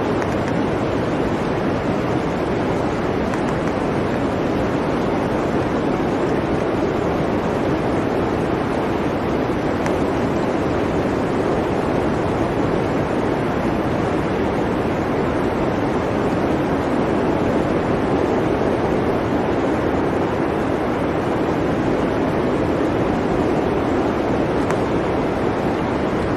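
Blizzard wind sound effect: a steady, dense rush of wind noise, strongest in the low-middle range, with no gusts breaking it up.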